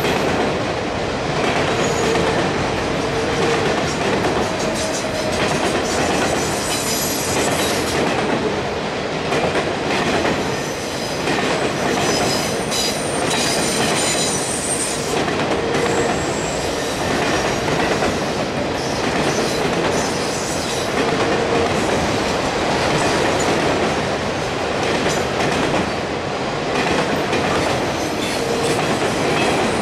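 Freight train of autorack cars rolling past close by: a steady, loud rumble and rattle of wheels on the rails, with thin high-pitched wheel squeals coming and going, mostly in the middle.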